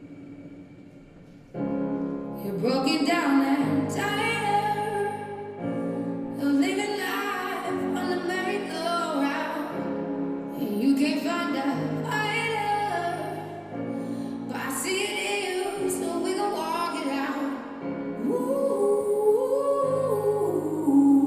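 A woman singing in a classical, operatic style to piano accompaniment; the piano enters with a held chord about a second and a half in and changes chords every few seconds under the sung line.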